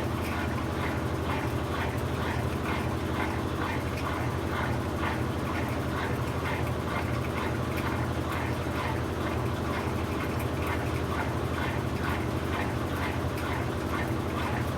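Brastemp BWK17 17 kg top-load washing machine running late in its quick cycle: a steady motor hum under a swishing that repeats about three times a second.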